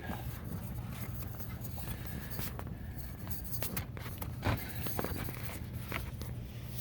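Scattered light clicks and knocks of hands working the fuel-line hoses and plastic retaining clips on a fuel filter, over a steady low background hum.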